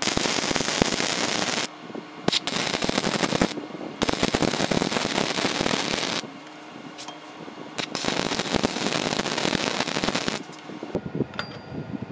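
A machine rattling rapidly, switched on and off in four bursts of one to two and a half seconds each.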